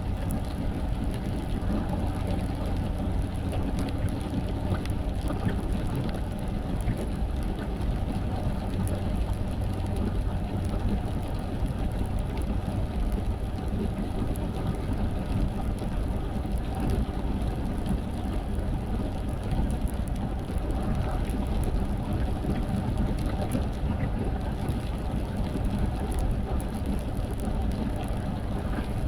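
A car driving on a wet road: a steady low rumble of tyres and engine, with no change in speed.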